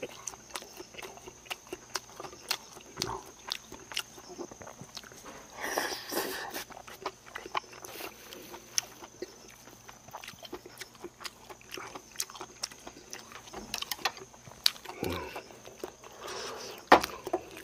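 Close-up eating sounds: a man chewing and smacking his lips, with many small irregular mouth clicks and a couple of longer slurping or crunching bursts.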